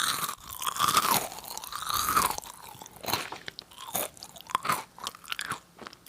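Close-miked chewing of Nongshim Jagalchi, a crisp fried snack: a run of sharp, irregular crunches in clusters about a second apart, growing quieter toward the end.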